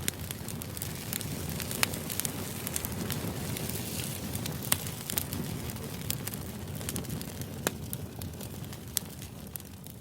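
Fire crackling: irregular sharp pops and snaps over a steady low rumble and hiss.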